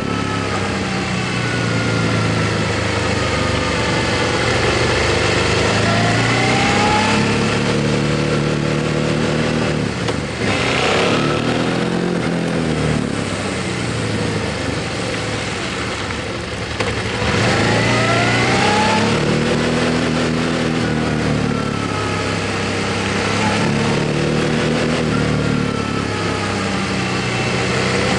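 Motorcycle engine running while riding. Its pitch rises and falls as it accelerates and eases off, with short dips, as at gear changes, about ten and sixteen seconds in.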